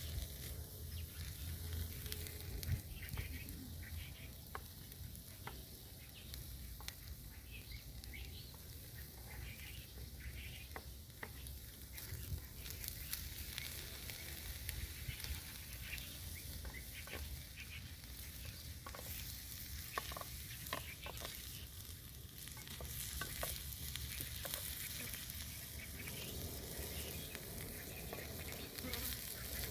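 Minced meat, onions and bell pepper sizzling in a hot frying pan while a utensil stirs them, with scattered clicks and scrapes against the pan.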